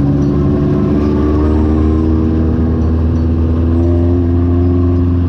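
An off-road vehicle's engine running steadily under way, its pitch rising slowly, with a strong low rumble.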